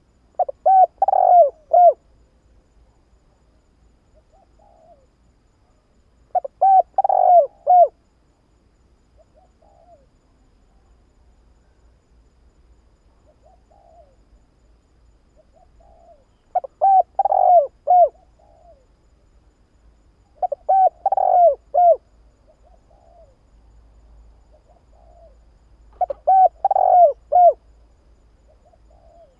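Spotted dove cooing: five song phrases, each a quick run of four or five low hooting notes lasting about a second and a half, with faint softer coos in the gaps between them.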